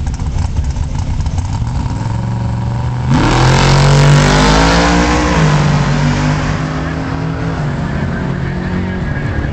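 Drag car at the starting line: the engine idles, then about three seconds in it launches hard with a sudden loud burst. The pitch climbs and drops back twice at the gear changes, then fades as the car pulls away down the strip.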